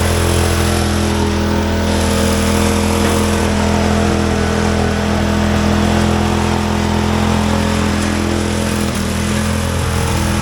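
Racing lawn mower's small engine running loudly at a steady speed, its pitch holding even without revving.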